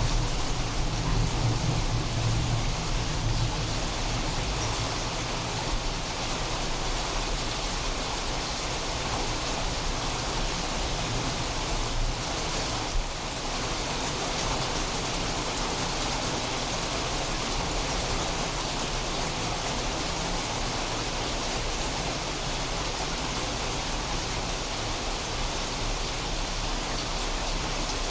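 Steady rain falling during a thunderstorm, an even hiss of drops, with a low thunder rumble fading away over the first few seconds.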